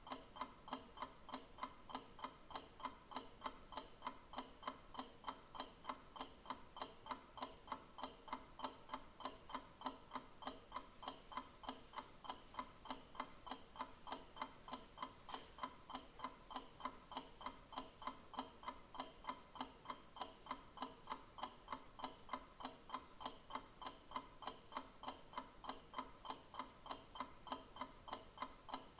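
Clock ticking steadily, an even run of sharp ticks at a constant rate.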